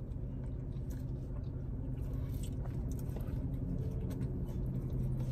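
Close-up chewing and biting of chili cheese curly fries, with scattered small clicks and smacks, over a steady low hum.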